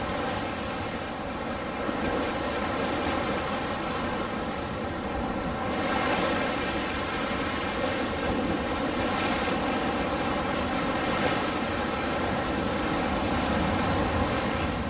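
Ocean waves washing on a shore: a steady rush of surf that swells and eases every few seconds.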